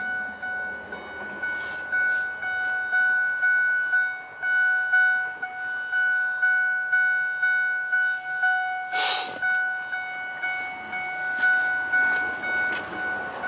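Electronic warning chime in the cab of a 2010 Ford F550 truck, dinging about twice a second with each ding fading before the next. There is a brief rustling noise about nine seconds in.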